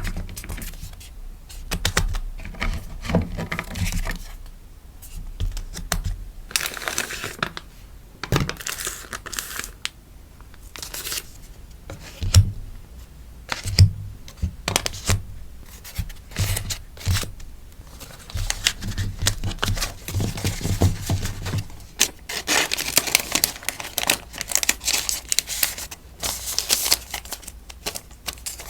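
Crinkly plastic and paper packaging being handled for a sticker order: rustling, crinkling and tearing, with many small taps and clicks. Longer stretches of crinkling come about a quarter of the way in and again near the end.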